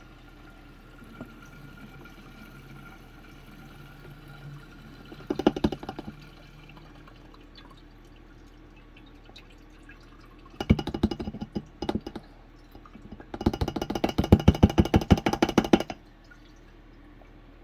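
Gasoline glugging out of a fuel can into a pit bike's small fuel tank, in three bursts of rapid gurgles; the longest and loudest comes near the end as the tank fills.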